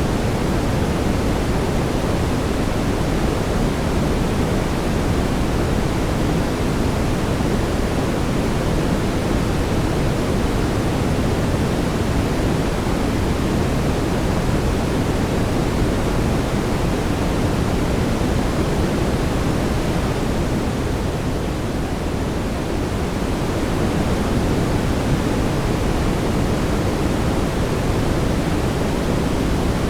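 Steady synthetic brown noise: an even, deep rushing hiss weighted toward the low end, dipping slightly about two-thirds of the way through.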